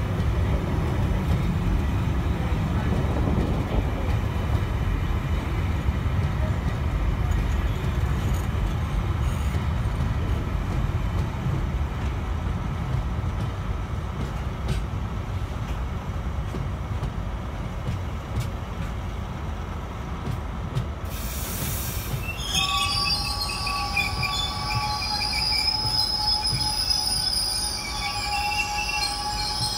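A freight train of bogie hopper wagons rolling past with a steady low rumble of wheels on rail. About two thirds of the way through there is a brief hiss, and then the wheels start squealing against the rail in several steady high-pitched tones.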